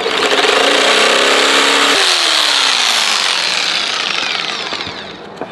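Electric saw cutting through plywood. The motor's pitch starts falling about two seconds in, and the cutting noise fades away toward the end.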